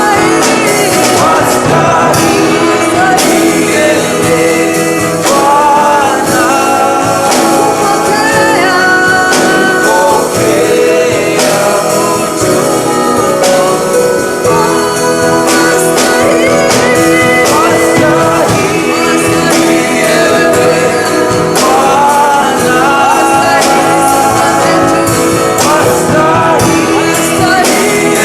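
Live gospel worship song: voices singing over instrumental backing with percussion.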